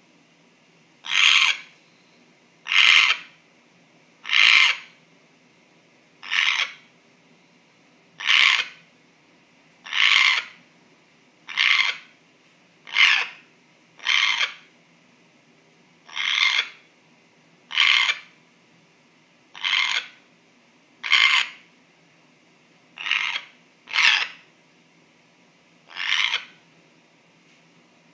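African grey parrot making the same short, rasping call over and over, about one every one and a half seconds, with quiet between the calls.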